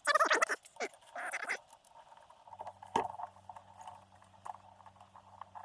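Metal tools and parts being handled: a few short clattering rattles, a sharp click about three seconds in, and a faint electrical hum starting about halfway through.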